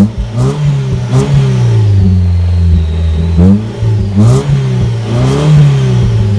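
Mazda3's engine revved several times through a newly fitted Magnaflow muffler and tip, with the resonator still in place; each rev rises quickly in pitch and falls back toward idle.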